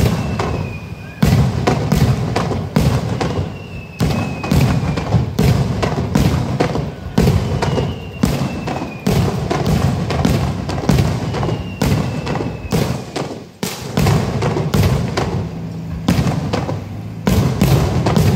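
Aerial firework shells bursting in a rapid, continuous barrage of booms, at times several a second, each trailing off in a low rumble.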